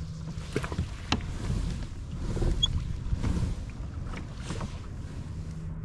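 Handling noise on a plastic fishing kayak: a few sharp knocks and clicks at irregular moments over a steady low rumble of water against the hull.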